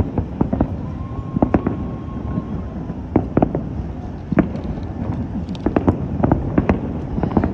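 Aerial fireworks show: a continual low rumble of shell bursts, broken by irregular sharp bangs and pops, several a second.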